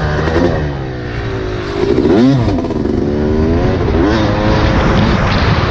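Motocross dirt bike engine revving up and down repeatedly as it is ridden, with a sharp rise and fall in pitch about two seconds in.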